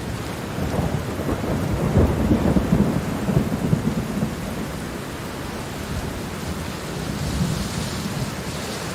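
Thunder rumbling with crackling peaks about two seconds in, over steady rain.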